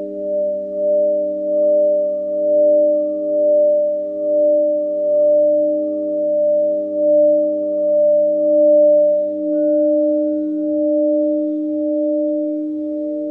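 Layered, sustained sound-healing tones: several steady pitches held together, swelling and fading in loudness about once a second. A faint higher tone joins about two-thirds of the way in.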